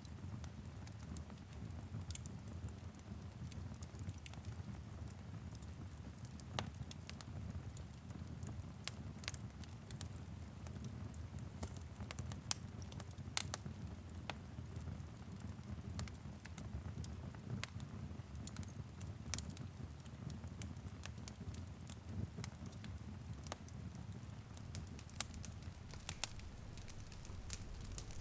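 Wood fire crackling, with frequent irregular sharp pops and snaps over a steady low rumble, and light rain pattering on a window.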